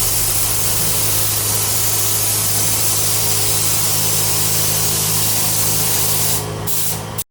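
Compressed-air spray hissing steadily over a low, steady hum, easing twice near the end and then cutting off abruptly.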